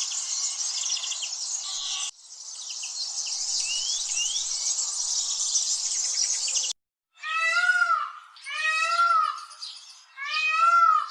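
Edited-together bird recordings: a dense, high chorus of chirping birds that cuts off abruptly twice, then three loud, drawn-out bird calls, each about a second long.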